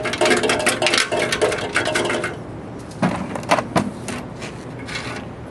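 Loose screws rattling and clinking inside a metal motorcycle gas tank as it is shaken to empty out the last of them, the tank ringing with the hits. The rattle is dense for about two seconds, then a few separate sharper knocks follow between three and four seconds in.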